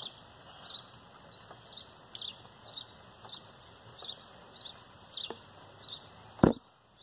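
A small bird chirping over and over, high short chirps about twice a second. A single sharp thump comes near the end.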